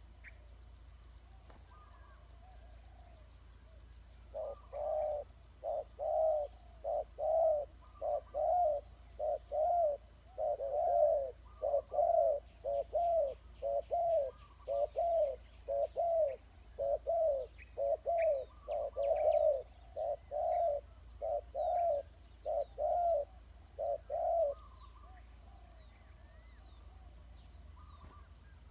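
A bird cooing: a long series of short, low, evenly repeated notes, about one and a half a second, starting about four seconds in and stopping about twenty seconds later. Faint high chirps of smaller birds come through over the middle of it.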